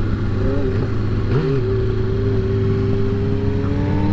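2009 Kawasaki ZX-6R's inline-four engine running under way on the road. The engine pitch dips briefly twice in the first second and a half, then climbs slowly and steadily, and drops suddenly at the very end.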